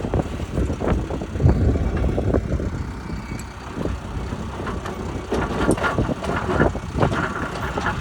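Diesel engine of a D3 bulldozer running while grading dirt, a rough, uneven rumble with scattered short knocks and clanks.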